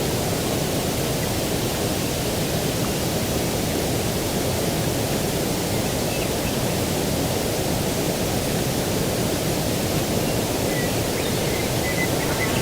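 Steady, even rushing outdoor ambience of breeze and distant noise, with a few faint high bird chirps near the end.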